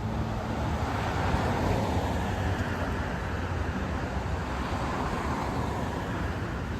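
City street traffic: a steady wash of road noise from passing vehicles with a low engine hum underneath, swelling up at the start.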